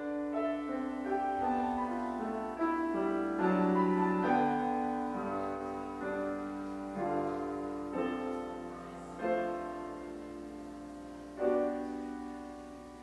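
Piano playing a slow piece in struck chords, each dying away before the next, with a last chord about eleven and a half seconds in that fades out.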